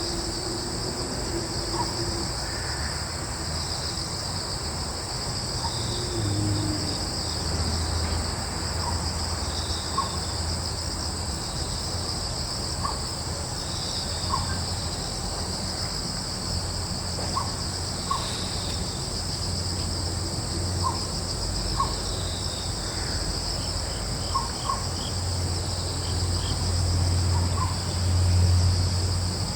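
Crickets and other insects chirping in a steady, high-pitched chorus, with occasional faint short bird chirps and a low rumble that grows louder near the end.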